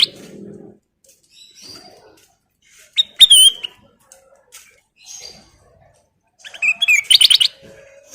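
Kutilang emas singing: a loud sweeping call about three seconds in, then a fast run of sharp repeated notes around seven seconds, with faint chirps between.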